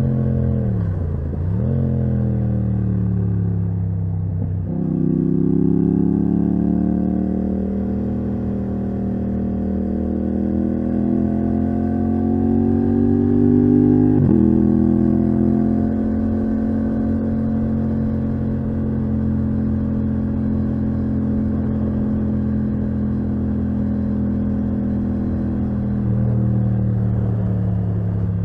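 Yamaha MT-07's parallel-twin engine through a titanium Akrapovic exhaust, heard from the rider's seat. Its revs dip and pick up again early on, then climb steadily under throttle. About halfway through they drop sharply at a quick upshift, and the engine holds an even pitch after that.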